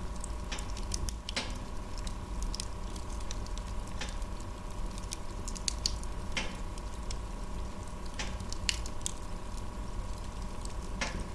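Wood fire crackling in a fireplace: irregular sharp pops and snaps, a few a second, over a low steady rumble of burning.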